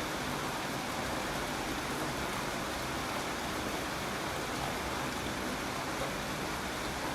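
Steady rainfall: a constant, even hiss of rain with no single drops or other events standing out.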